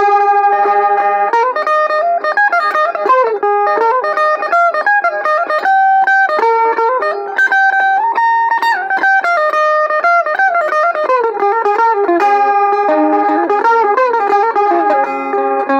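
Harmony electric mandolin being played: a melody of quick plucked notes, with a few notes held longer.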